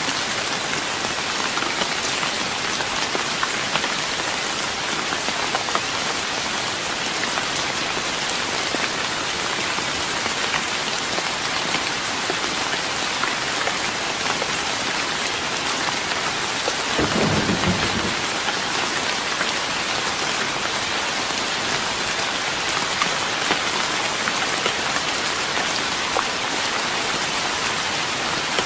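Steady rain pattering on a wooden deck. A brief low rumble comes about two thirds of the way through.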